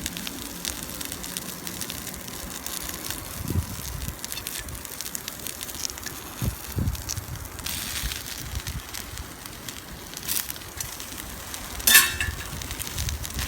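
Wood campfire crackling, with scattered sharp pops and a few dull thumps, and one louder clack about twelve seconds in.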